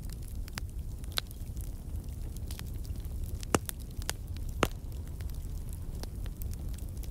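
Wood fire crackling in a fireplace: a low steady rumble of burning with scattered sharp pops and snaps, two louder pops about three and a half and four and a half seconds in.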